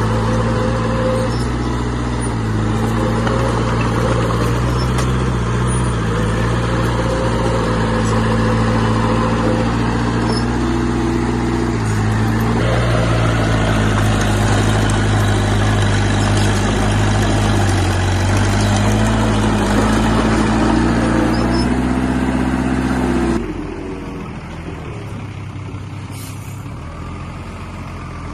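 Heavy diesel engine of an earthmoving machine working under load, its pitch rising and falling repeatedly as it revs. About 23 s in it drops suddenly to a quieter, steadier engine sound.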